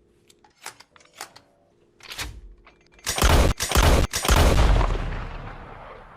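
A loud burst of crackling blasts, like a gunfire or explosion sound effect, starting suddenly about three seconds in and fading away over the following three seconds, after a few short clicks and swishes.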